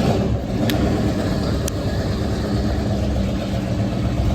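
Truck and car engines running, a steady low rumble, with two short high clicks about a second apart.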